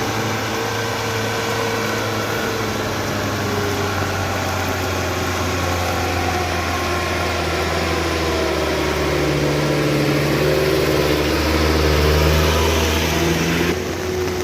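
Heavy vehicle engine running close by, its hum growing louder and a little higher toward a peak about twelve seconds in, then dropping away near the end.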